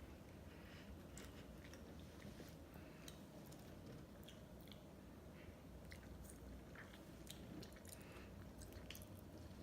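Faint, close-up mouth sounds of someone eating ice cream: soft chewing with many small, wet clicks scattered throughout.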